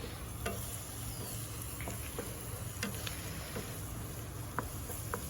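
Chopped onion, ginger, garlic, green chili and curry leaves sautéing: a low, steady sizzle with scattered small pops and clicks.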